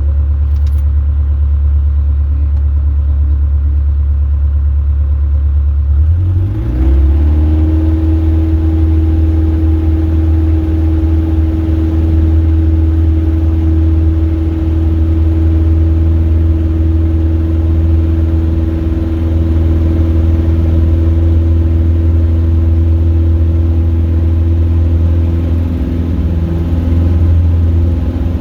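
Robin DR400 light aircraft's piston engine and propeller running with a steady drone. About six seconds in the pitch rises slightly and the sound grows brighter, then holds steady.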